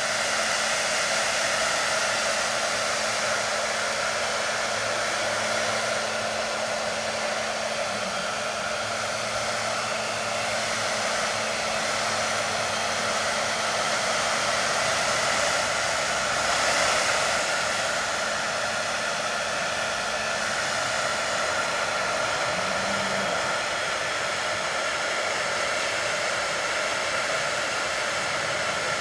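Handheld hair dryer running steadily, blowing warm air over a goat kid to warm her up.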